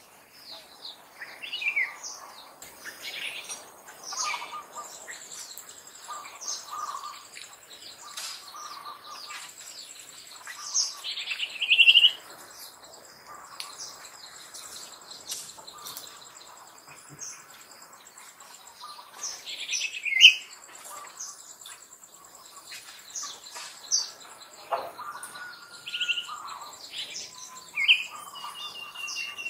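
Birds chirping in short scattered calls, two of them much louder than the rest, over a steady high insect buzz that comes in after a few seconds.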